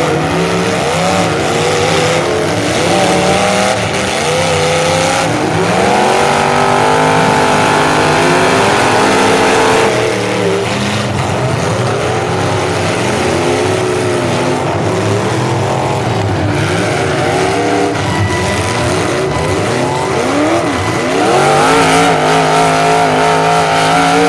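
Several full-size demolition derby cars' engines revving hard and easing off over one another, their pitch repeatedly rising and falling. A few knocks of cars colliding come through.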